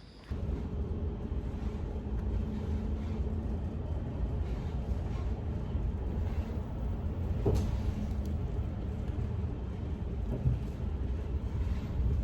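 Steady low rumble of a running road vehicle, as heard riding inside it, starting suddenly, with a couple of brief knocks.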